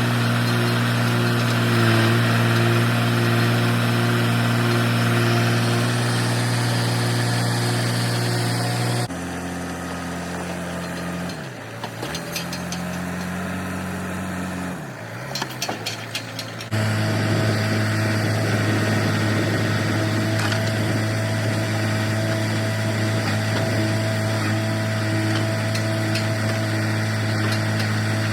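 Heavy log truck's diesel engine running steadily. For several seconds in the middle the hum drops quieter and changes, with a few clicks, then the steady running resumes.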